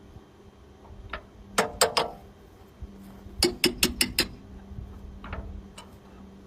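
Sharp metallic taps and knocks on a tractor's shotgun-shell cartridge starter as it is loaded: a few around a second or two in, a quick run of five near the middle, then two lighter taps.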